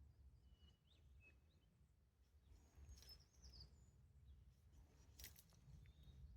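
Near silence: a faint low rumble with a few faint, short, high bird chirps and a couple of light clicks.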